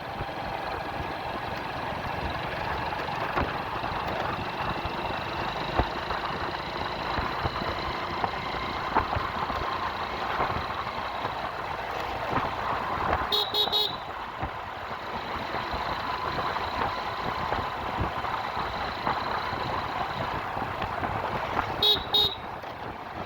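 Road traffic noise heard from a moving bike, with a vehicle horn tooting in quick short beeps about halfway through and again near the end.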